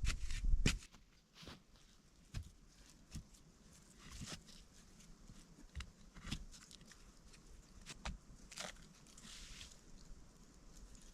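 A few dull thumps in the first second, then sparse, sharp snaps and crackles of dry wood, one every second or so.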